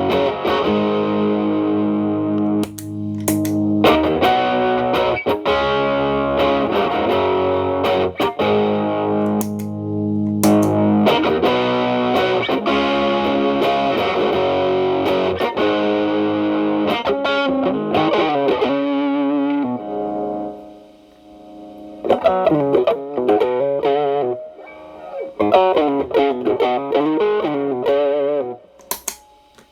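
Telecaster electric guitar played through an Xotic BB-series overdrive pedal at maximum gain into a Marshall Valvestate amp's clean channel: heavily distorted sustained chords, then single-note runs. About two-thirds of the way through the playing drops away briefly, then returns cleaned up in lighter picked lines.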